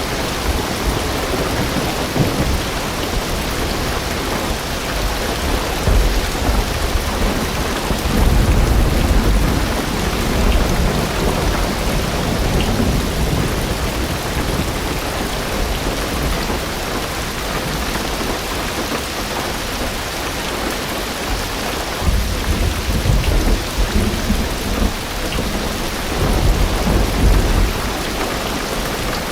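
Heavy rain drumming steadily on a car's roof and windows, heard from inside the car, with low rumbles of thunder swelling several times, about eight seconds in and again twice after twenty seconds.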